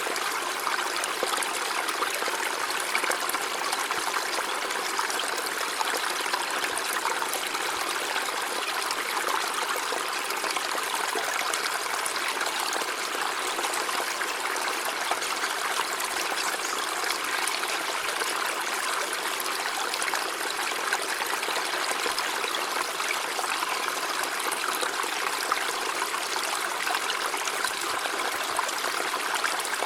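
River water flowing steadily over stones, a constant rushing and trickling with no breaks.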